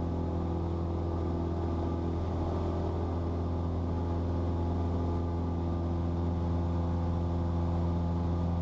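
Cessna 172's piston engine and propeller droning steadily at climb power after takeoff, heard inside the cabin as a constant low hum with several steady tones.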